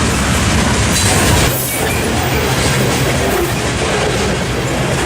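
Freight train passing: a loud, steady rumble of cars rolling over the rails.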